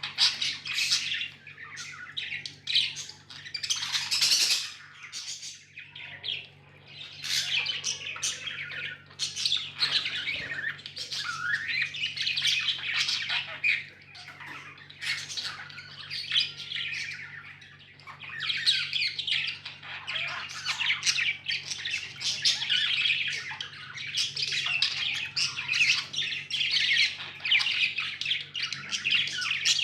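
A group of budgerigars chirping and chattering without pause: a dense stream of quick, high chirps and squawks.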